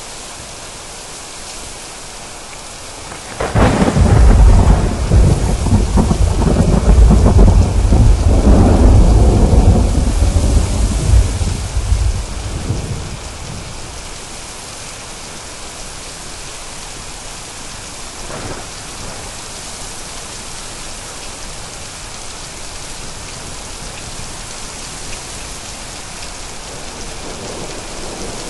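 Steady rain with a loud clap of thunder a few seconds in that rolls and rumbles deep for about ten seconds before fading. A fainter, brief crack comes later, while the rain goes on throughout.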